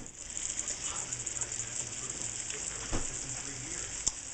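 Shrimp and snow peas frying in a wok, sizzling and crackling steadily just after coconut milk has been poured over them, with a couple of light clicks near the end.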